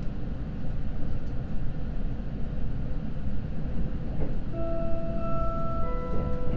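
Steady low rumble inside a Seibu Red Arrow limited express as it pulls away from the station. About four and a half seconds in, an electronic chime melody of held notes starts over the train's public-address system, ahead of the on-board announcement.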